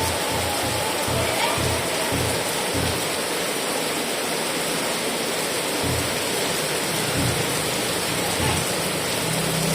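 Heavy rain falling steadily. Low pulses run underneath, quick and regular for the first few seconds and only now and then after that.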